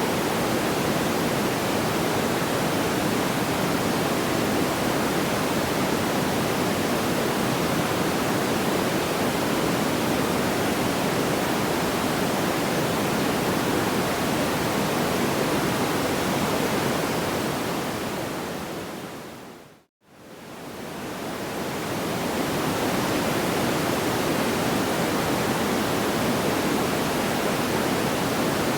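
Steady, even rushing hiss with no distinct crackles or pops. About twenty seconds in it fades smoothly down to silence and straight back up, the seam where a looped ambient-noise track restarts.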